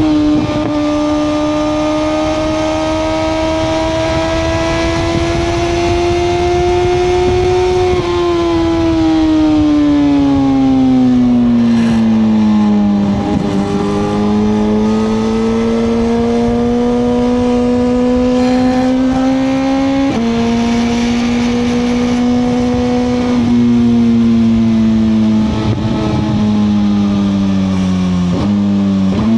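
2021 Suzuki GSX-R1000R's inline-four engine running under way. Its pitch climbs slowly, falls away for several seconds as the throttle closes, then climbs again. About twenty seconds in it drops abruptly at a gear change, and it steps down a few more times near the end.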